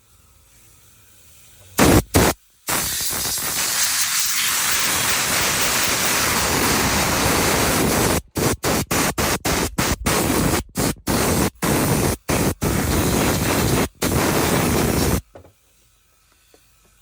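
Pressurized cleaning jet hissing loudly: two short blasts, then a long continuous blast, then triggered on and off in quick pulses a dozen or so times before stopping.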